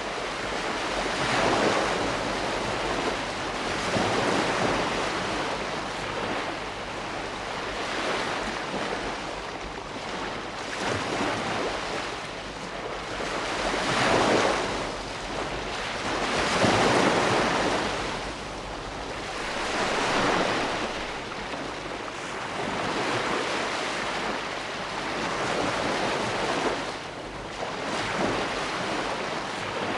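Ocean waves breaking on a shore: a continuous rush of surf that swells and ebbs as each wave comes in, every three seconds or so.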